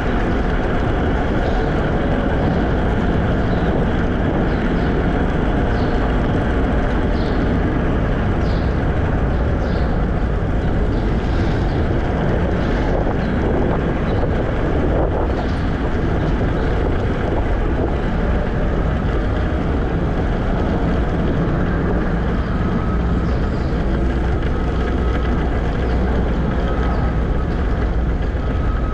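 A Segway Ninebot electric scooter riding along: a steady rumble of wheels on pavement, with wind on the microphone.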